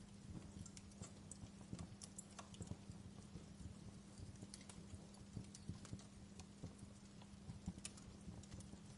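Wood fire crackling in a fireplace: faint, irregular small pops and snaps, several a second, over a low steady hum.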